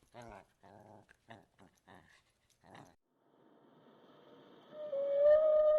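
A quick run of short pitched animal calls, about three a second; after a brief pause, a loud, steady whistling tone starts near the end.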